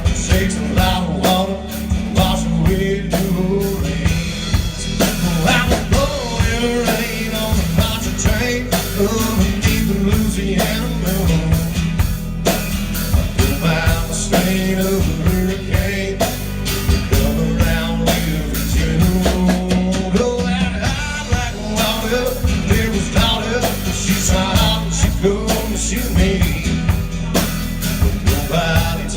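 A live rock band playing, with drum kit, bass and guitar and singing at times.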